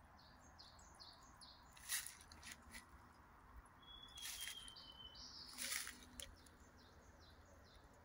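Faint forest birdsong: a small bird repeating short, high, falling chirps several times a second, and one long thin whistle held for about a second near the middle. A few brief rustling noises cut in, the loudest about two seconds in and again near six seconds.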